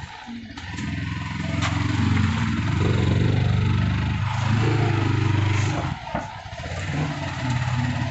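Sport motorcycle's engine pulling away and accelerating, with the throttle eased off briefly about six seconds in before it picks up again.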